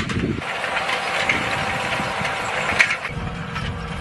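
Tractor engine running, its low rumble giving way for a few seconds to a higher-pitched mechanical noise with a sharp click near the end, then returning.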